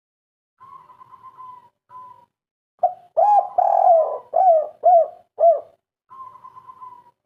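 Spotted dove (tekukur/derkuku) cooing: a run of about six loud, rounded coos in the middle, the three-part 'kuk 3' local song prized by Indonesian dove keepers. Faint, thin, steady high notes come before and after the coos.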